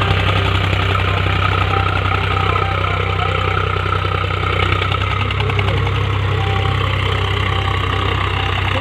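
An Eicher 241 tractor's single-cylinder diesel engine running steadily with an even, rapid beat.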